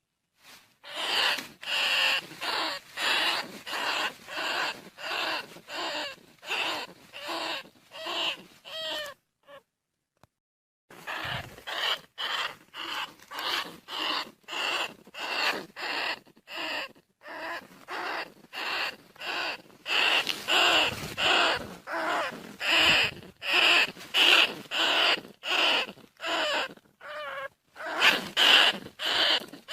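Bandicoot rat calls: short, pitched squeaks repeated in a steady train of just under two a second, with a break of about a second and a half near the middle.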